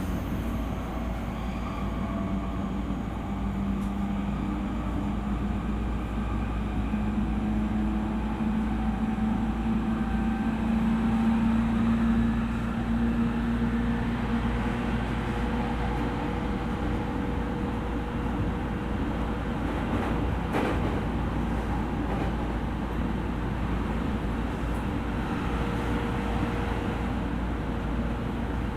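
Running sound heard inside an E231-series electric commuter train: a steady rumble of wheels on rail with a faint traction-motor tone that climbs slightly in the first half, then holds level. There is a brief clack about twenty seconds in.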